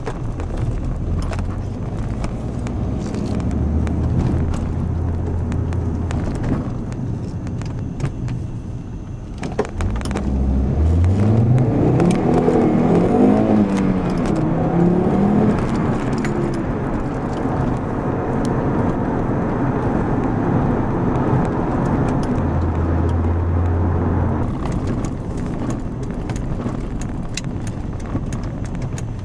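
Inside the cabin of a Volvo 850 R: its turbocharged five-cylinder engine and road noise at a steady cruise, then about ten seconds in the car accelerates hard, the engine note rising, dropping back at a gear change and rising again for several seconds before settling. Light rattles and clicks sound throughout.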